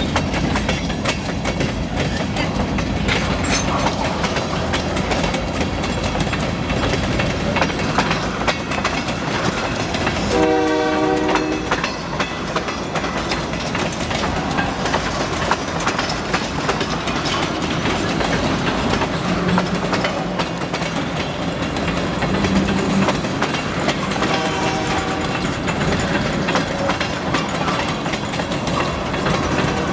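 Freight train of tank cars rolling past, wheels clattering steadily over the rail joints. A train horn blows for about a second and a half about ten seconds in, and again more faintly about 24 seconds in.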